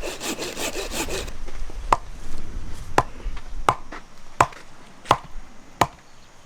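Hand saw cutting through firewood with fast back-and-forth rasping strokes. After about a second the strokes give way to a sharp click roughly every 0.7 seconds.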